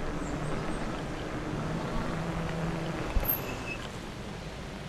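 Riding noise on an e-bike: a steady low hum with rolling and wind noise, easing off a little after three seconds in, with a single knock as it does.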